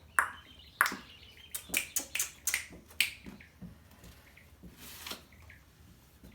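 A string of short, sharp clicks and taps at an uneven pace, bunched in the first three seconds and sparser after that.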